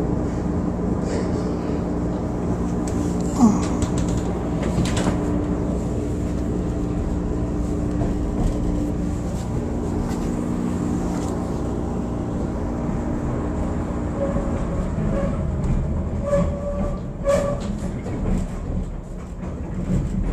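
CTA Yellow Line rapid-transit train running on the rails, heard from inside the car: a steady rumble with a level hum from the running gear that fades about two-thirds of the way through, and a few short clicks and knocks from the wheels and track.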